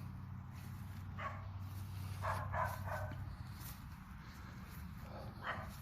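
Faint, short animal calls: one about a second in, a quick run of three around two and a half seconds, and one more near the end, over a steady low hum.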